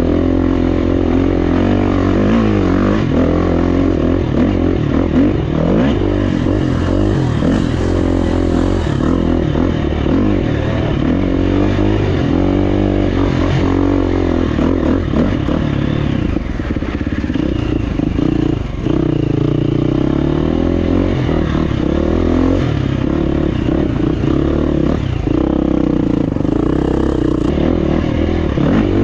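GasGas EX350F four-stroke dirt bike engine revving up and down continually as it is ridden along trail, with rattling and scraping from the bike over rough ground.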